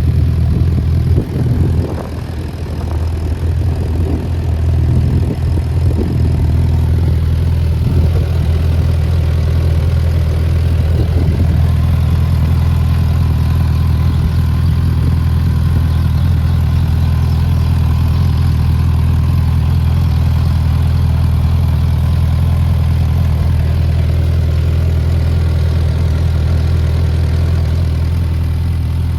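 Suzuki GSF650S Bandit's inline-four engine idling steadily through an aftermarket Black Widow exhaust fitted with a dB killer, with a few brief irregular sounds in the first ten seconds or so.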